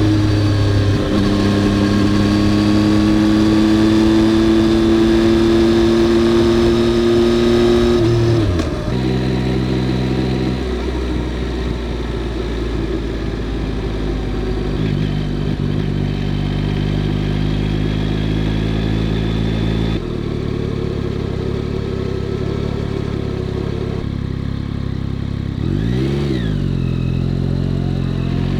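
Yamaha XSR900's inline three-cylinder engine running under way at a steady pitch, then dropping sharply in revs about eight seconds in. It settles at lower revs with a few further changes in pitch, and near the end the revs dip and rise quickly, then climb again.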